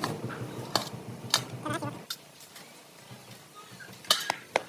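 Sharp knocks or taps, a few over a low steady hum that stops about two seconds in, then a quick run of them near the end.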